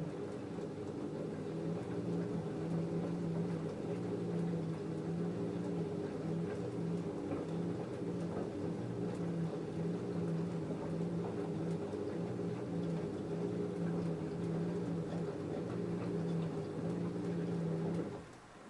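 LG F10A8HDS5 front-loading washing machine running mid-cycle: a steady motor hum that cuts off suddenly near the end.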